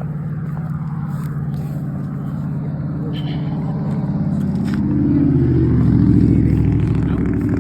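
Car engine running, then accelerating: its note rises and grows louder from about five seconds in, and the sound cuts off abruptly at the end.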